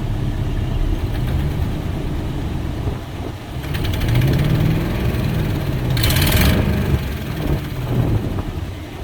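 A Ford 5.4L Triton V8 running, revved up and let back down twice. There is a brief hiss about six seconds in.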